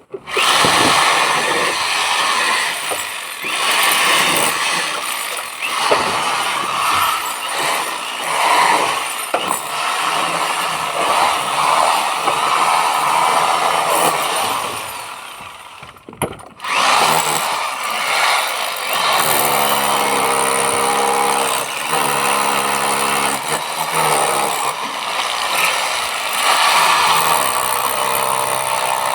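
Hammer drill boring into hollow-block masonry, running hard with a dense rattling hammering. It stops for about a second a little past halfway, then starts again, with a steadier humming pitch coming through in the last third.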